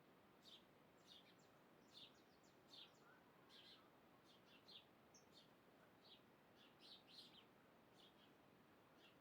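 Faint bird chirps: many short, high calls in quick succession, several a second, over a faint steady hiss.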